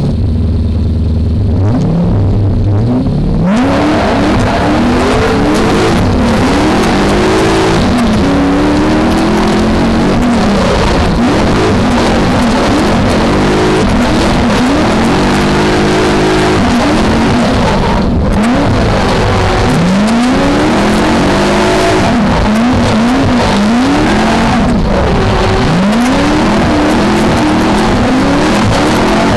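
V8 engine of a BMW E30 drift car, with a low steady note for the first few seconds. It then revs up and down over and over as the car drifts, over a constant loud hiss.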